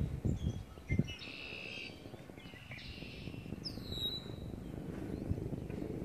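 Wild birds singing: several short, high-pitched song phrases, with a clear down-slurred whistle about midway. A couple of low thumps in the first second.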